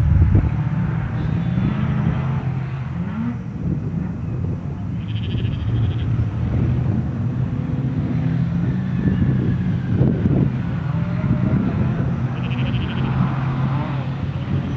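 Car engine being driven hard across a muddy course, the revs rising and falling.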